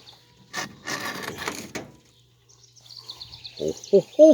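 Rough scraping and rubbing for just over a second, as something heavy is shifted or dragged. Near the end come a few short pitched sounds, over faint high bird chirping.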